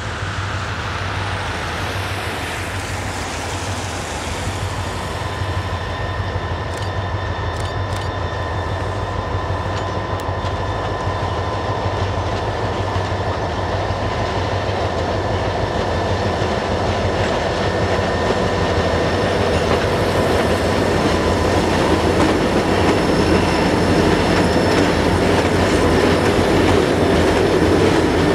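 Diesel freight locomotive passing with its engine rumbling, followed by boxcars rolling by with wheels clicking over the rail joints and a faint steady wheel squeal. It grows louder toward the end as the cars pass close.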